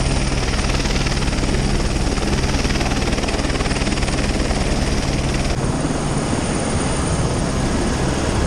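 Helicopter running, loud and steady, its engine and rotor making a continuous drone.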